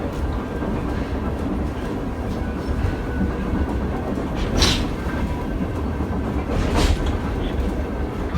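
Sakamoto Cable funicular car running steadily downhill on its track: a continuous low rumble from inside the car, with two brief rushing swells, about four and a half and seven seconds in.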